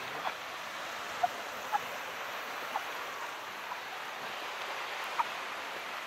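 Calm sea water making a steady, soft wash, with short high plips scattered through it at irregular moments.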